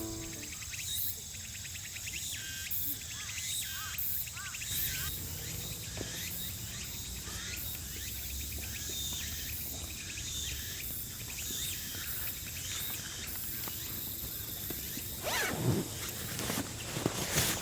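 Outdoor nature ambience: a steady hiss with insects chirping and a few short bird calls. A brief louder sound sweeps downward near the end.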